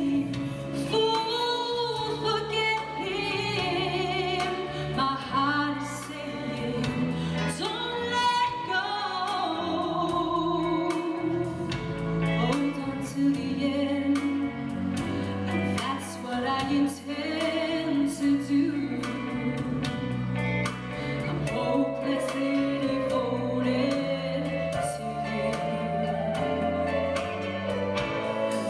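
A choir singing a pop song with band accompaniment, a steady beat and bass line under the voices.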